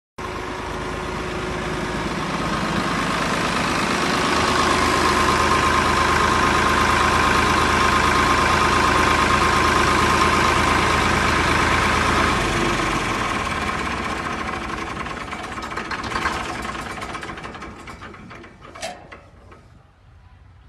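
Tractor engine running steadily, building up at first, then fading away over the last several seconds. A brief sharp sound comes near the end.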